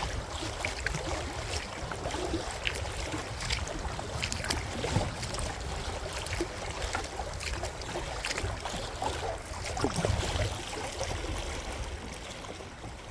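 Kayak paddling in choppy water: the paddle splashing and dripping with small knocks, over a steady low rumble of strong wind on the microphone.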